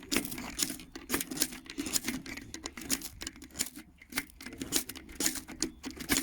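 A quick, irregular run of sharp clicks and short scrapes, several a second, from a ferro rod being struck over birch-bark tinder to get it to catch.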